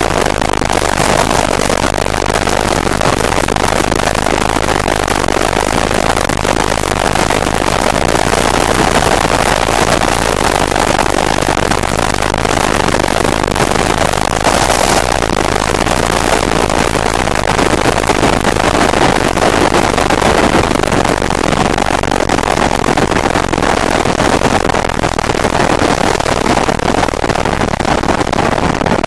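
GX-R 250S motorcycle being ridden at speed: its engine running hard under a steady rush of wind over the microphone.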